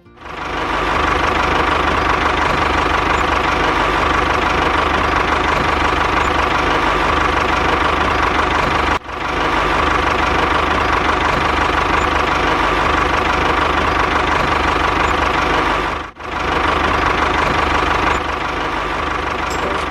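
A small engine running steadily at an even speed, with a constant whine over a low knocking rumble. It cuts out abruptly for a moment twice and picks straight back up.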